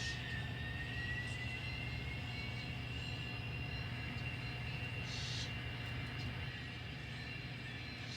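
N scale model locomotive running on the layout, its small motor giving a thin whine over a low hum; the whine climbs in pitch over the first couple of seconds as it changes speed. A short hiss comes about five seconds in.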